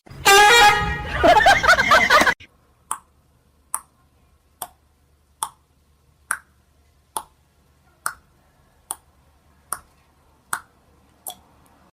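Loud pitched sound with shifting tones for about two seconds, then a sharp click repeated about eleven times at an even pace, a little faster than once a second.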